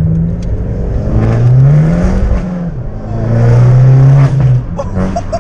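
Abarth 500's turbocharged 1.4 four-cylinder, breathing through a straight-piped, decatted Bombardone exhaust, under hard acceleration. The note climbs, dips at a gear change, climbs again and holds high, then drops off about four and a half seconds in, with a few sharp pops as the throttle closes.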